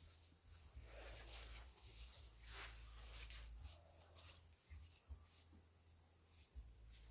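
Near silence: faint scratching and rustling over a low steady hum, busiest in the middle.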